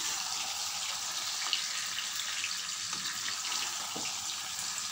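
Fried chicken pieces and masala gravy sizzling in oil in a pan as they are stirred together: a steady hiss with a few faint clicks.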